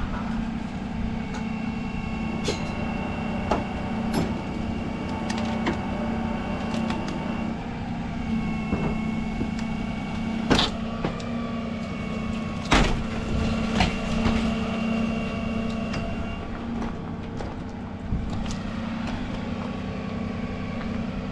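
Tow truck engine running steadily during a winch recovery, with a high whine that comes and goes and a few sharp metallic clanks.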